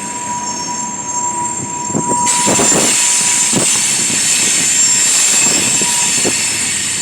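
Train rolling slowly past with its steel wheels squealing in several steady high tones, and a few clanks from the cars. The noise grows louder about two seconds in.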